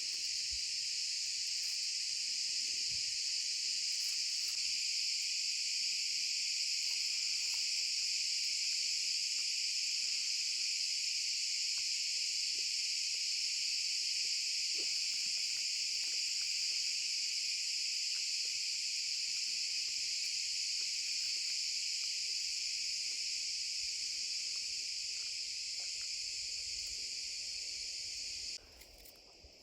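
A dense, steady chorus of insects chirring at high pitch, which cuts off suddenly near the end.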